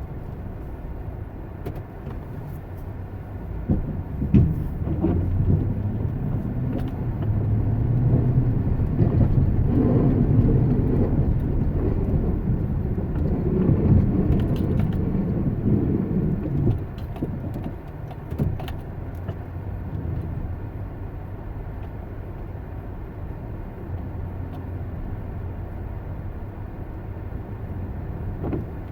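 A motor vehicle's low rumble that swells for about the first half and then settles back, with a few sharp knocks.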